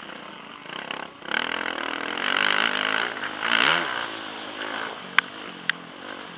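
Motocross bike engine revving hard from about a second in, its pitch rising and falling near the middle, then easing off, heard through a helmet camera. Two sharp clicks come near the end.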